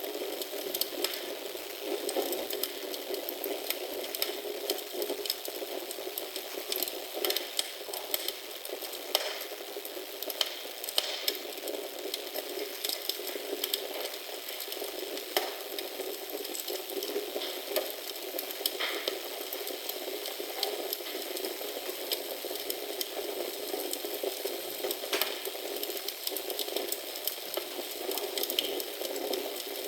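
Wood fire in a fireplace crackling: a steady hiss with frequent small pops and snaps scattered all through.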